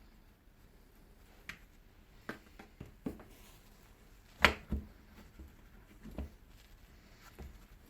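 Irregular clicks and knocks of hard plastic and metal parts as the handle of a Hilti DD 130 core drill is worked off its body, with the loudest knock about four and a half seconds in.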